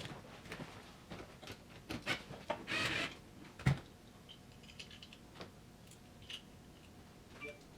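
Small clicks, taps and rustling of hand work on wiring at a car dashboard, with a short rustle about three seconds in and a sharp knock just after it.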